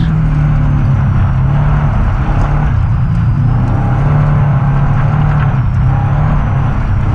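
Rally car engine heard from inside the cabin under hard driving, its revs rising and falling with throttle and gear changes, over continuous road noise from the tyres on packed snow.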